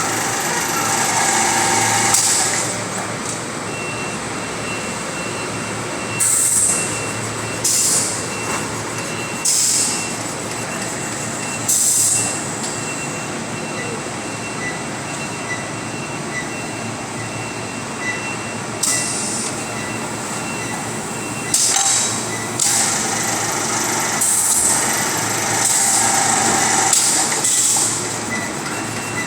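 Automatic 50 kg packaging machine running with a steady mechanical din. Short hissing bursts come every one to three seconds.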